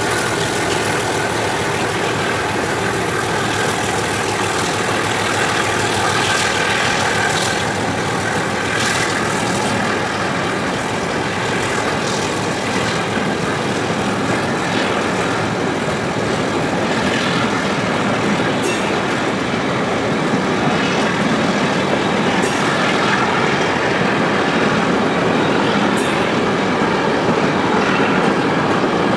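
Freight train's container flat wagons rolling past, a steady rumble and clatter of wheels on rail, with a few sharp clicks in the second half.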